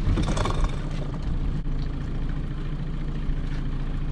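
Small fishing boat's engine idling with a steady low drone, with a short burst of noise in the first half second.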